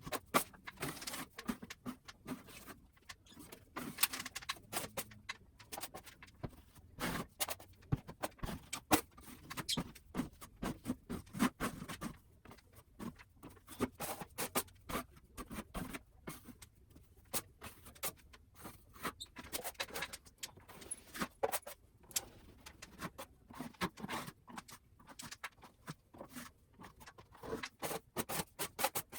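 Hand-tool work on a plaster ceiling: irregular short scrapes and clicks, coming in quick runs with brief lulls.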